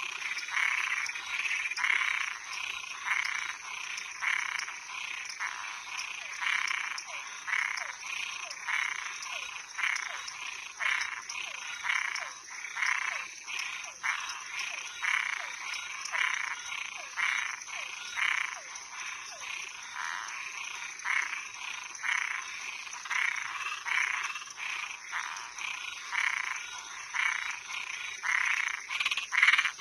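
Night chorus of frogs and tree frogs calling from a pond, a run of short rasping notes about twice a second. A steady high-pitched hum runs underneath.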